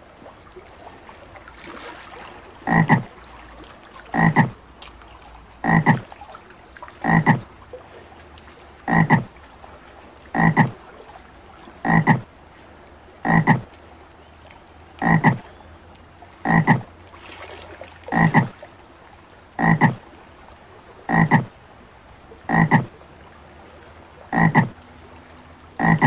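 Frog croaking: short, loud croaks repeating evenly about every second and a half, over a faint steady background hiss.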